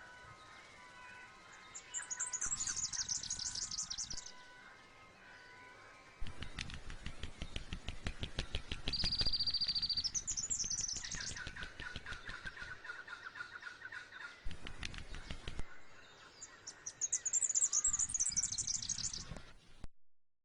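Birdsong: three bursts of fast, high chirping trills, with a dense run of clicks through the middle. The sound cuts off suddenly near the end.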